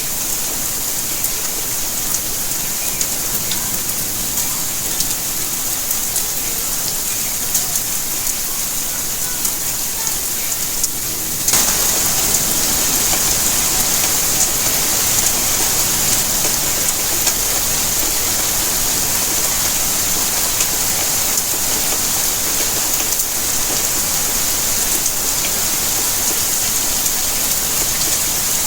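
Steady rainfall, a dense even patter of drops. About a third of the way in it abruptly becomes louder and fuller, and stays so.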